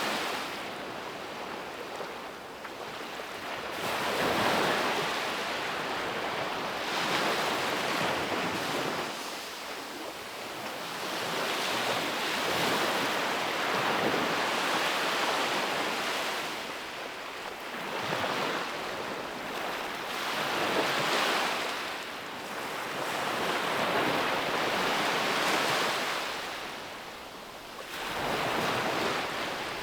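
Ocean waves breaking and washing onto a beach, the surf swelling and easing every few seconds.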